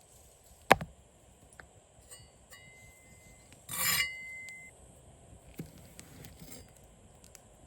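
A sharp knock, then light clicks and scrapes of utensils being handled. About four seconds in comes a louder clatter with a short ringing metallic clink.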